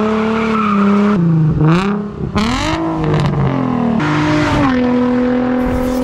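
Nissan 350Z's 3.5-litre naturally aspirated V6 through a Tomei aftermarket exhaust, revving hard, its pitch climbing and dropping several times, then settling into a steady held note for the last second or so.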